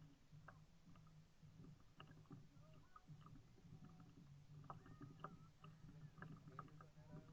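Faint sounds of a kayak being paddled on calm water: small irregular splashes and drips over a low steady hum.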